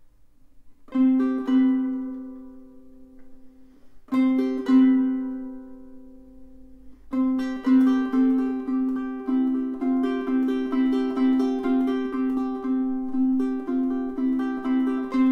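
aNueNue UT5K solid koa tenor ukulele being played. One chord is struck about a second in and left to ring out, a second one follows about four seconds in, and then a steady rhythmic pattern of plucked notes begins about seven seconds in.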